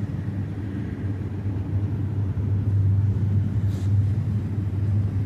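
Steady low background hum, with a brief faint hiss a little after halfway.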